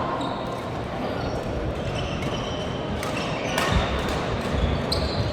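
Badminton play in a sports hall: shoes squeaking on the court floor and thudding footfalls, with one sharp hit about three and a half seconds in.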